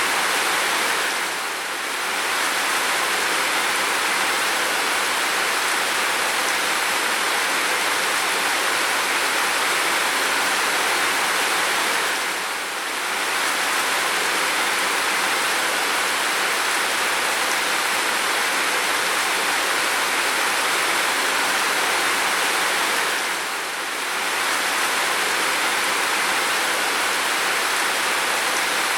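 Heavy rain falling steadily, an even hiss without pause. Three brief dips in level come about eleven seconds apart.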